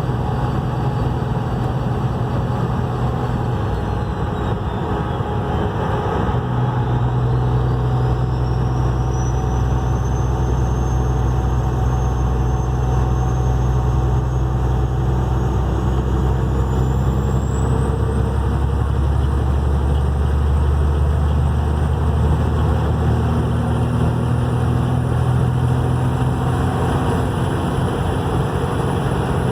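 Engine with compound turbochargers running steadily with a thin, high turbo whistle over it. The whistle sags in pitch about five seconds in, then climbs higher in several steps as the turbos spool up, while the engine note deepens and grows stronger from about six seconds in.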